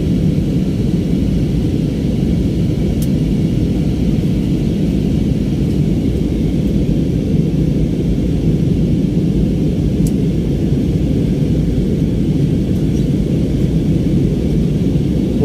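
Steady low rumble of an airliner's jet engines and rushing air, heard from inside the cabin.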